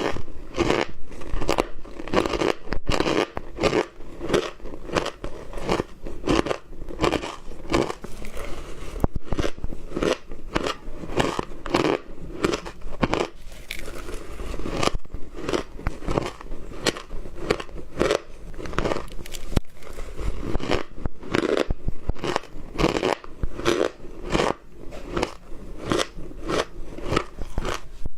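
Ice being bitten and chewed close to the microphone: a steady run of crunches, about three a second, with no pauses.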